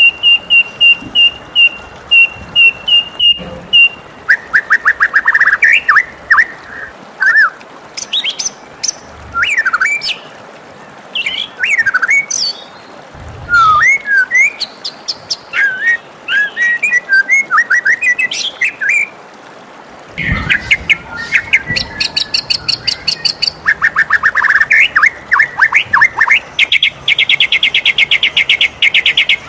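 White-rumped shama (murai batu) singing. It opens with a run of evenly repeated high whistled notes, moves into varied sweeping and falling whistles, and near the end breaks into fast rattling trills.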